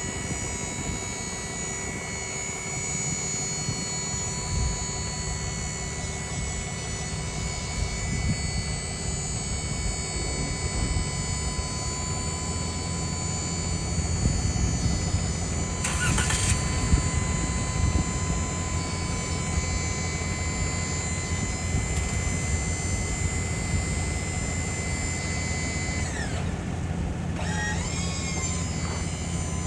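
A vehicle engine running steadily, a low rumble that grows a little louder about halfway through.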